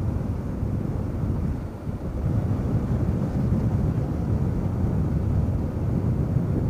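Wind rushing over the microphone of a Yamaha WR250R dual-sport rider at road speed: a steady low rumble that dips briefly about two seconds in.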